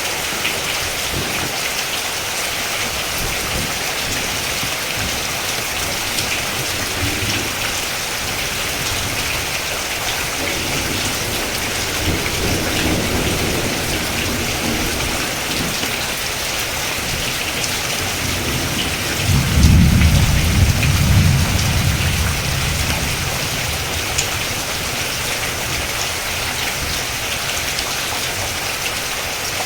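Steady rain with thunder rumbling: a faint low rumble a little before the middle, then a louder rumble about two-thirds of the way through that is the loudest moment.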